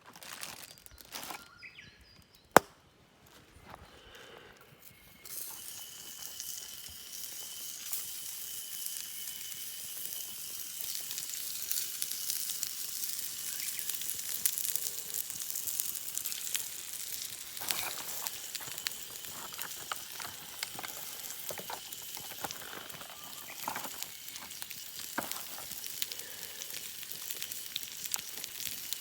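A single sharp click, then about five seconds in a sudden onset of steady sizzling with small crackles and pops, like food frying in a hot pan.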